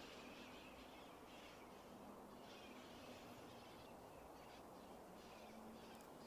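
Faint, on-and-off calls of a flock of wild parrots over low outdoor background noise.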